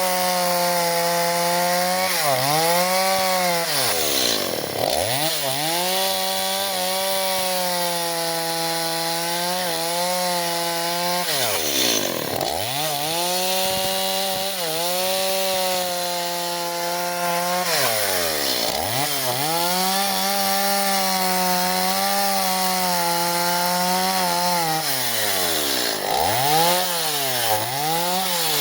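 Stihl MS 170 two-stroke chainsaw running at high revs while pruning avocado branches, its pitch dropping sharply toward idle and climbing back about four times as the throttle is eased off and opened again.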